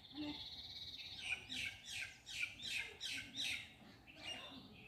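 A bird calling: a buzzy high trill at first, then a quick run of about six sweeping high notes.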